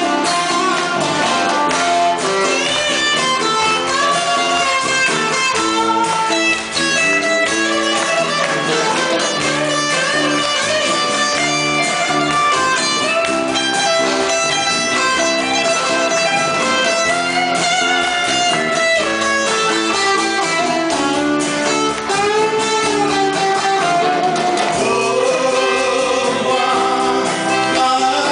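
Live band music: a 1970s–80s style Korean pop song played on guitars with a full band behind it.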